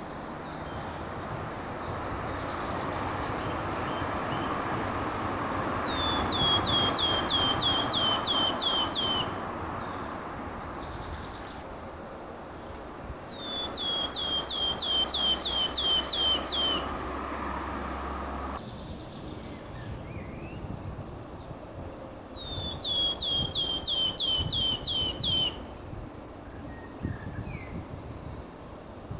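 A songbird singing the same phrase three times, about eight seconds apart: each phrase is a run of about ten quick, evenly spaced down-slurred notes, lasting about three seconds. A steady background noise haze lies under it.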